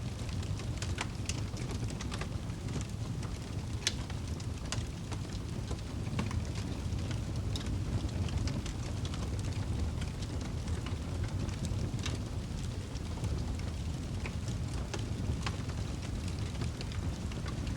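Wood fire burning in a fireplace: a steady low rumble of flames with irregular sharp crackles and pops from the burning logs, about one or two a second.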